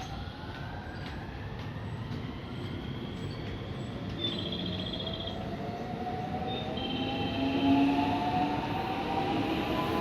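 JR West 223 series 2000 electric train pulling away, its motor whine climbing steadily in pitch as it gathers speed over the rumble of the wheels on the rails.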